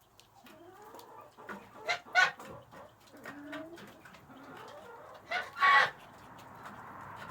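Chickens clucking while they feed, with two short loud calls about two seconds in and a longer loud squawk near the end.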